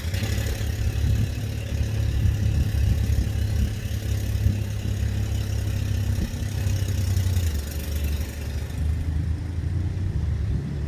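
A steady low engine hum, with a hiss over it that fades out about nine seconds in.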